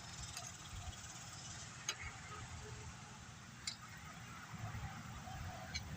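A few faint, sharp metallic clicks spaced a second or two apart, as a washer and new sprocket are handled and fitted onto a chainsaw's crankshaft.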